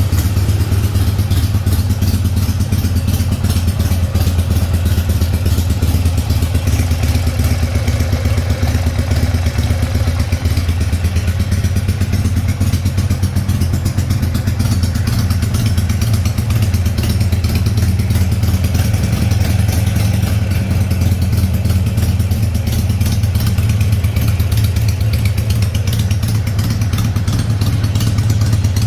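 Harley-Davidson Sportster 883R's 883 cc air-cooled V-twin running steadily at idle through Screaming Eagle mufflers, a deep even rumble with no revs.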